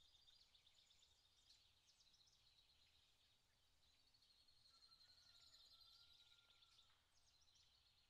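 Faint birdsong in a forest: small birds chirping and trilling rapidly, with a longer, slightly louder trill and a thin held whistle in the middle.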